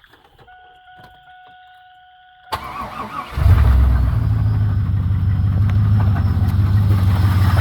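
A 1999 Camaro Z28's 5.7-litre LS1 V8 is cranked by the starter about two and a half seconds in, catches within a second and settles into a steady idle. It carries an engine noise that the owner cannot place, either a rod knock from the bottom end or a lifter. A faint steady tone sounds for about two seconds before the cranking.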